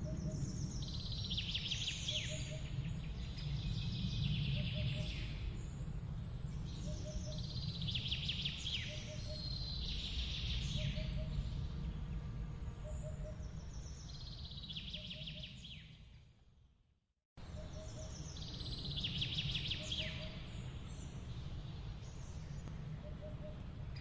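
Songbird singing repeated phrases every few seconds, with short paired chirps between, over a steady low rumble. The sound fades out about two-thirds of the way through, goes silent for a moment, then comes back abruptly with the same birdsong and rumble.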